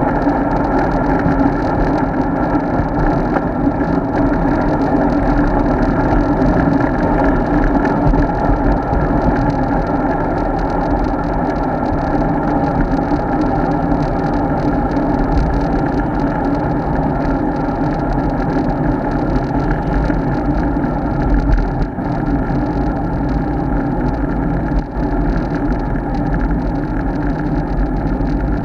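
Steady wind and road noise from a road bike in motion, a loud constant drone that hardly changes.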